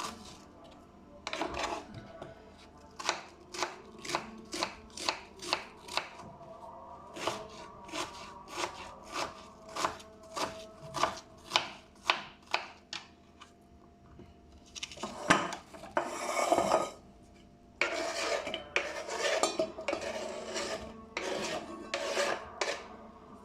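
Kitchen knife cutting on a cutting board in a steady run of strokes, about two a second. Past the middle come longer stretches of scraping and clatter from dishes and utensils.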